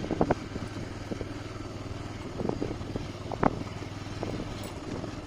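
Motorcycle engine running steadily, with a couple of short knocks or clatters.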